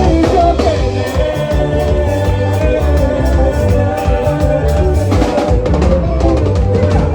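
Live band playing an upbeat song with singing over a drum kit and bass, cymbals crashing from about five seconds in.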